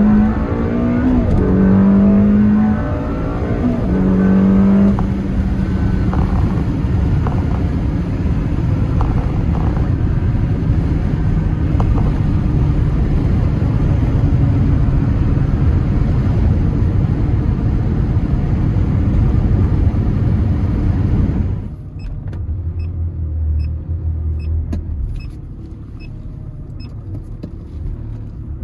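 Ferrari 360 Spider's 3.6-litre V8 pulling hard, its pitch rising and breaking off twice in the first few seconds with quick F1 gearbox shifts. It then runs steadily at speed under heavy road and wind noise. About 21 seconds in the sound drops suddenly to a quieter, low engine hum with a few light clicks.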